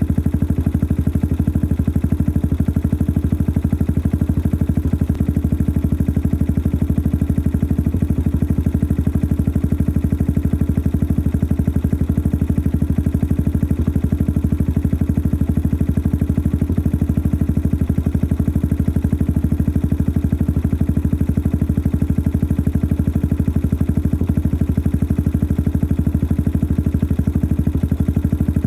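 Yamaha XT 600 single-cylinder four-stroke engine idling steadily through a modified stock exhaust, with even, rapid exhaust pulses. The owner calls the engine noisy.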